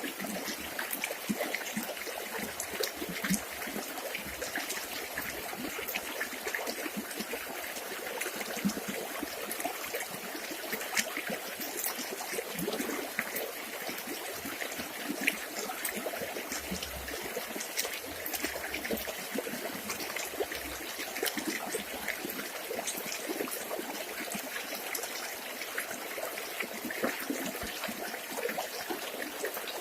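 A village river flowing and trickling, with many small splashes and gurgles over a steady rush of water.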